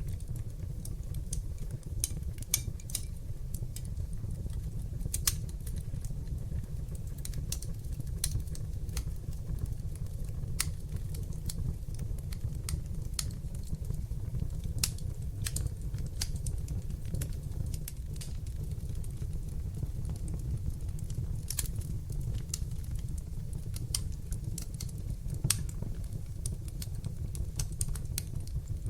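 Wood fire burning in a fireplace: a low, steady flame noise with irregular sharp crackles and pops, a handful of them louder than the rest.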